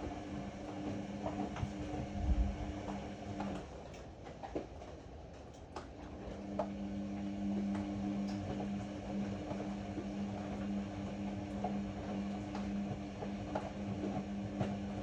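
Ariston AML125 washer-dryer running: a steady motor hum that stops about three and a half seconds in and starts again about two seconds later, the pause of the drum between turns in the wash cycle, with scattered light clicks and knocks throughout.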